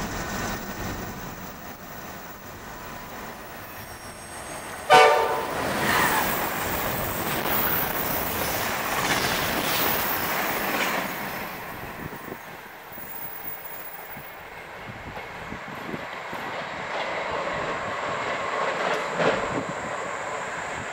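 Amtrak passenger train hauled by an AEM-7 electric locomotive passing at speed. A short, loud horn blast comes about five seconds in, then the rush and rumble of the locomotive and coaches going by, which fades as the train draws away.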